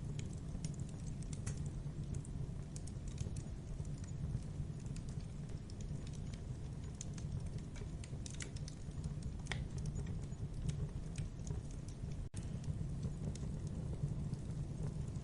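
Wood fire crackling in a fireplace: a steady low rumble of flames with frequent small, sharp pops and snaps scattered through it.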